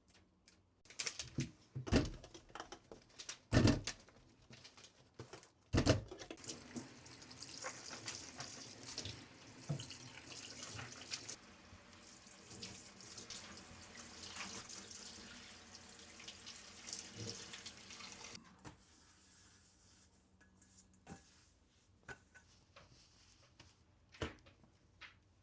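A few sharp clunks of things being handled, then a tap runs water into a sink for about twelve seconds and is shut off, followed by a few light clicks.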